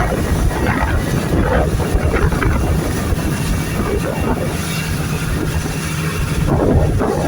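Motorboat engine running steadily with a low hum, under heavy wind buffeting the microphone.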